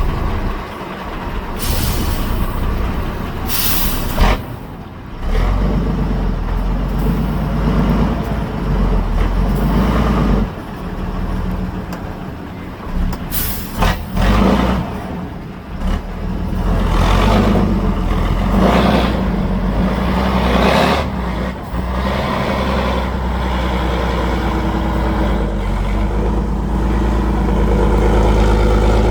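Heavy off-road trial truck's diesel engine running under load, rising and falling as it is worked, with several short sharp hisses.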